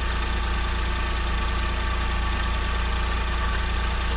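Kei car engine idling steadily, with a thin, steady high tone over it.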